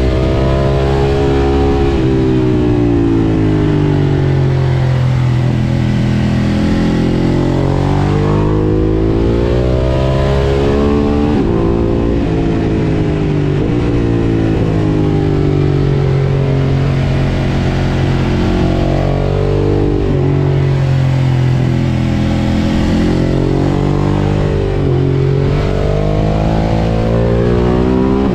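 Ducati Monster 1200 S's 90-degree V-twin running through an Akrapovič exhaust under way, its pitch rising under acceleration and dropping again as the throttle is eased, several times over, with a steady rush of wind and road noise.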